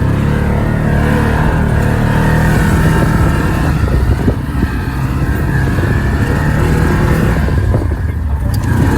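UTV engine running steadily under throttle on a rough trail, with scattered knocks and rattles from the ride.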